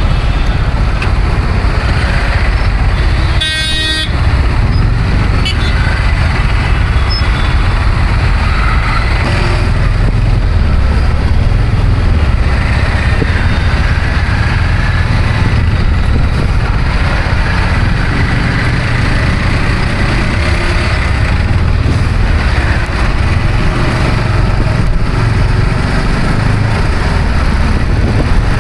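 Busy road traffic with a steady low rumble of engines and tyres. A vehicle horn gives one short honk about three and a half seconds in.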